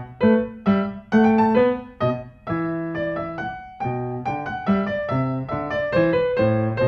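Background piano music: a gentle melody of struck notes with chords.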